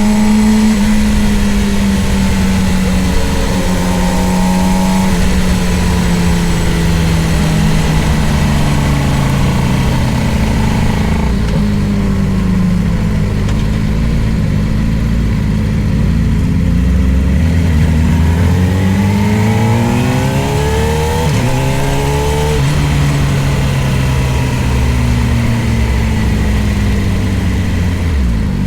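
Middleweight superbike's engine at racing speed. The pitch sinks slowly for about ten seconds as the bike slows, then climbs hard again from about two-thirds in, with quick drops at the gear changes, over a steady hiss.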